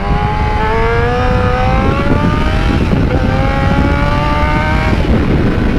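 Yamaha YZF-R6's inline-four engine accelerating hard: its note climbs, breaks briefly about three seconds in at an upshift, comes back lower and climbs again, then drops away near the end. Heavy wind noise runs under it.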